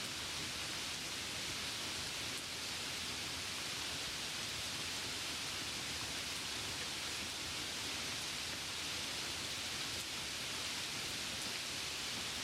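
Steady rain ambience: an even hiss of falling rain with soft wind.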